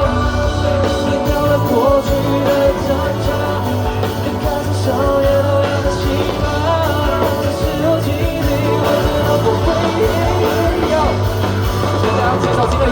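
Amplified live rock-pop band music with a singer's voice over it, loud and continuous.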